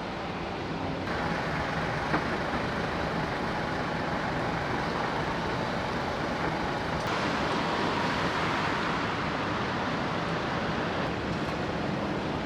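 Steady rumbling, hissing vehicle or machinery noise, changing in tone about a second in and again about seven seconds in, with a single click about two seconds in.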